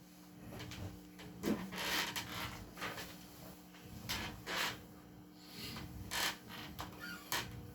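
Scattered rubbing, knocking and clicking handling noises over a faint steady hum.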